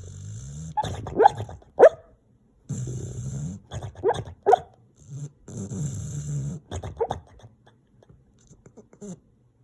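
A dog vocalising in its sleep: three low, growly, snore-like rumbles of about a second each, broken by short yips and muffled woofs. The noises fade out after about seven seconds, with one last faint yip near the end.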